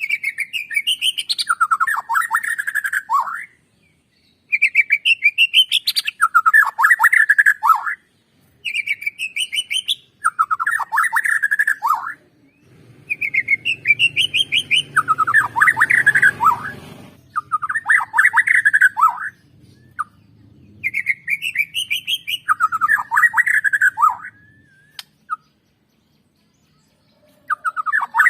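White-rumped shama (Borneo murai batu) singing in repeated phrases a few seconds apart, each a run of rising notes followed by a fast, lower trill, with short pauses between. A low rumble runs under the song for a few seconds in the middle.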